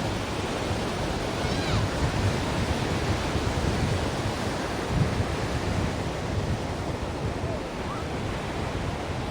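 Ocean surf washing in steadily, a deep rushing noise that swells and eases gently, with a few faint short chirps over it.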